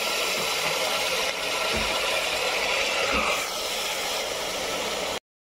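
Rice, onions and peas sizzling in hot oil in a pressure cooker: a steady hiss, with two dull knocks about two and three seconds in. The sound cuts off abruptly near the end.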